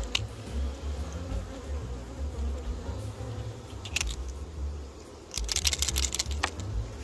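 Honeybees buzzing around an open hive, with a sharp click about four seconds in and a quick run of clicks and rattles near the end.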